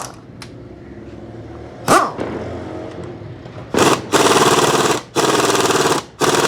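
Compressed-air tool run in four loud bursts of about half a second to a second each in the second half, each with a fast, even rattling pulse; a single sharp knock comes about two seconds in.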